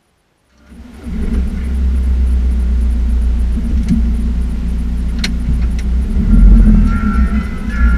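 Volkswagen car's engine running, heard inside the cabin as a steady low rumble, with a couple of sharp clicks partway through.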